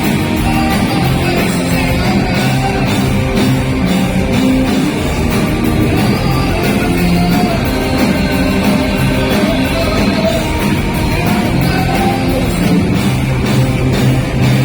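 A rock band playing live, loud and without a break, with electric guitar.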